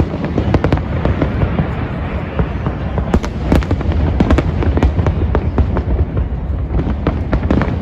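Fireworks display: a dense run of overlapping bursts, several sharp reports a second, over a continuous low rumble.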